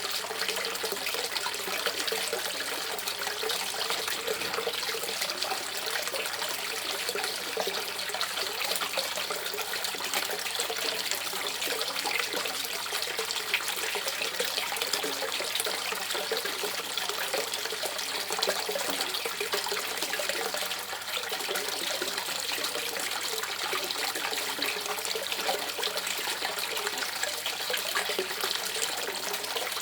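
Running river water gurgling and trickling steadily.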